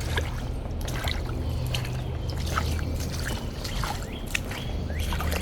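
Woodpecker knocking on wood overhead: scattered single taps rather than a fast drum roll. Small birds chirp at times, more near the end, over a low steady rumble.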